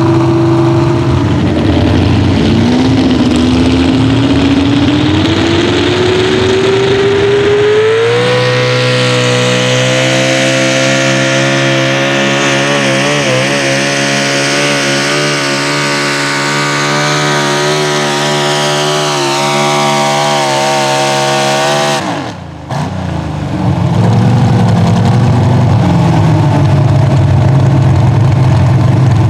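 Pro stock four-wheel-drive pulling truck's engine under full load on a pull: the pitch climbs steadily for several seconds, then holds high and steady. About twenty-two seconds in it cuts off abruptly, and lower engine running follows.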